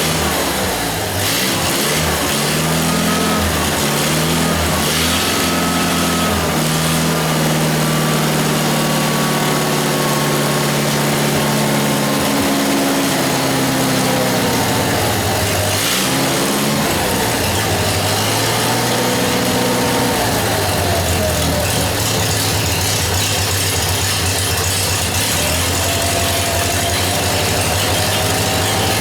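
Air-cooled Wisconsin VH4D V4 engine of a 1947 Lincoln SA-200 welder running after being brought back to life, its speed drifting up and down every few seconds.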